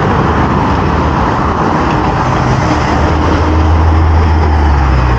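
Steady rush of wind and road noise while riding along a street, with the low hum of passing motor traffic swelling in the second half.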